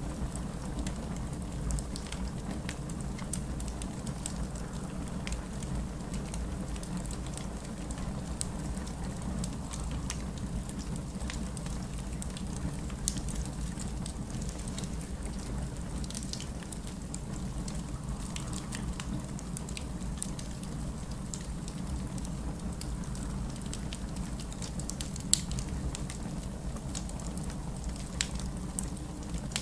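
Wood fire crackling in a fireplace: scattered snaps and clicks over a steady low rumble, with a sharper pop about 25 seconds in.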